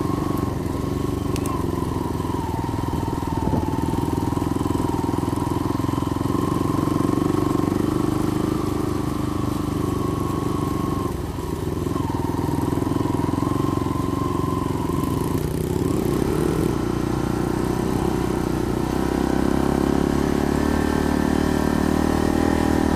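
Small Honda 70 cc four-stroke single-cylinder dirt bike engine running steadily under way, its pitch dipping briefly about halfway through and changing again a few seconds later.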